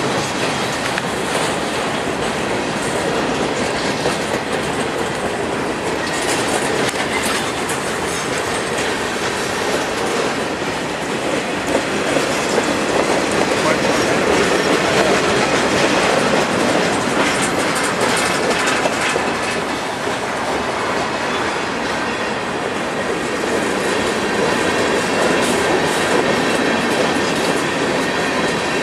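Freight train cars rolling past close by, with a steady rumble and the wheels clacking rhythmically over rail joints.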